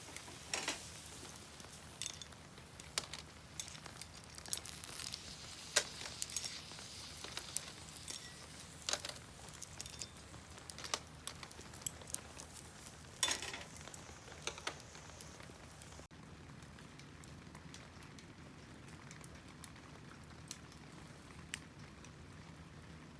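Wood fire crackling, with irregular sharp pops over a soft steady hiss; the pops thin out after a cut about two-thirds of the way in.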